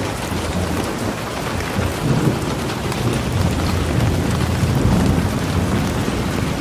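Steady rain falling, a dense even hiss, with a low rumble swelling up about two seconds in and again toward the end.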